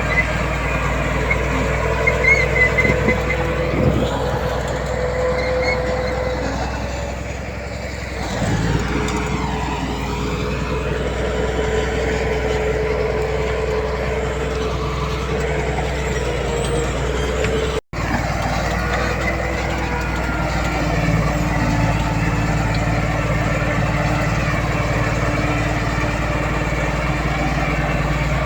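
Heavy diesel earthmoving machinery working steadily: a bulldozer and dump trucks running under load. The sound cuts out for an instant about two-thirds of the way through.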